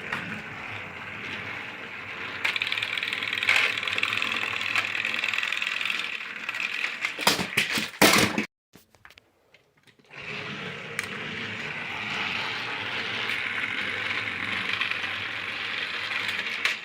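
Small electric motor of a toy Thomas engine whirring steadily. It stops abruptly with a few sharp clicks about halfway through, goes silent for a moment, then whirs again.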